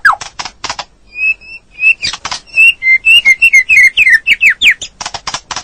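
Songbird song from a masteran tutoring recording: a quick run of falling whistled notes, harsh rasping notes, and clear whistles, with a short pause about a second in.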